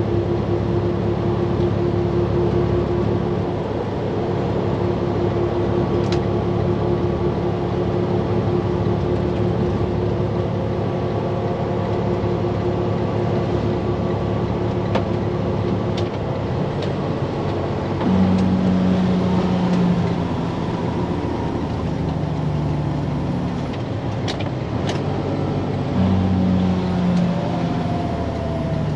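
Diesel engine of a day-cab semi truck heard from inside the cab, running steadily under load; its note changes a few times in the second half as gears are shifted on the 10-speed manual.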